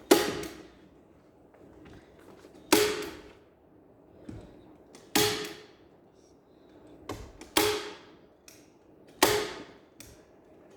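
Upholstery staple gun firing five times, roughly every two to two and a half seconds. Each shot is a sharp snap followed by a brief high hiss.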